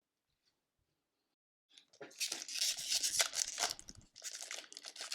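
Near silence for about two seconds, then a trading card pack's foil wrapper crinkling and tearing as it is opened.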